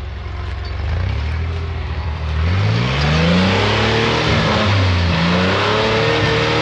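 Off-road 4x4's engine revving hard on a rock climb: the pitch rises from about two seconds in, then rises and falls several times as the throttle is worked, getting louder.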